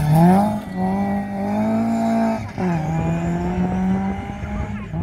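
Rally car's engine at full throttle as it powers out of a gravel corner, its pitch held high, then dropping with an upshift about two and a half seconds in and pulling on steadily in the next gear.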